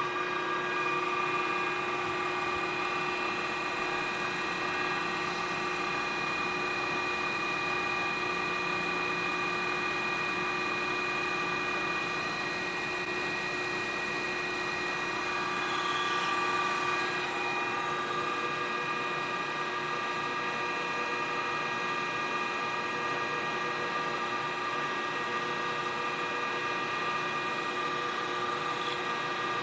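A workshop power tool's electric motor running steadily with an even whine of several pitches. A little past the middle there is a brief rise in loudness with a faint high scrape.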